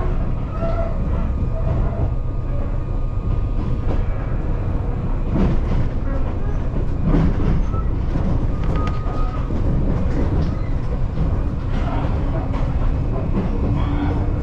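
Gakunan Railway electric train running, heard from inside the carriage: a steady low rumble with scattered clicks of the wheels over the rail joints.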